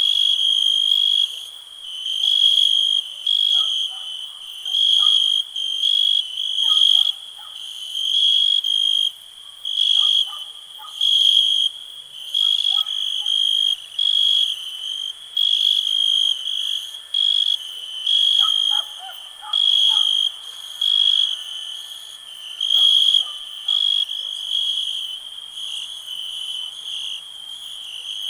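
Crickets chirping: a steady high trill that swells into louder pulses about once a second, with faint short calls lower in pitch scattered underneath.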